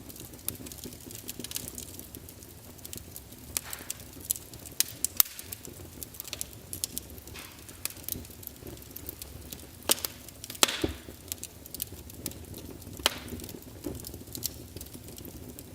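Wood fire crackling in a fireplace: irregular sharp pops and snaps over a low steady rumble of flames, with a louder pop about ten seconds in.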